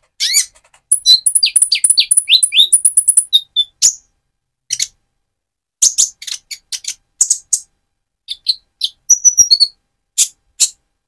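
Purple-throated sunbird (Leptocoma sperata) singing: a fast run of very high twittering notes over the first few seconds, then short, sharp separate chirps.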